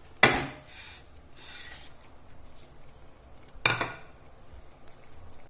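Two sharp clatters of a utensil against a pot, about three and a half seconds apart, with a faint hiss between, while noodles boil in the water.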